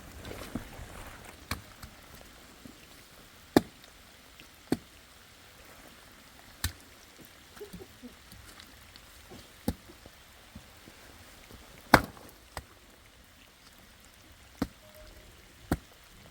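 About nine sharp knocks at irregular intervals, one to three seconds apart, over a faint steady hiss.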